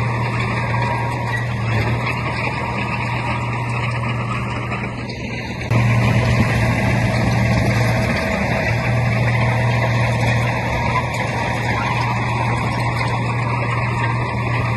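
Heavy diesel earthmoving machinery running steadily with a deep engine hum and a rough noise over it, which gets suddenly louder about six seconds in.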